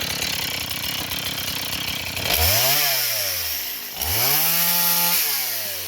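Two-stroke chainsaw idling, then revved up twice: a quick rev that falls away about two seconds in, and a second rev about four seconds in that is held high for about a second before dropping back.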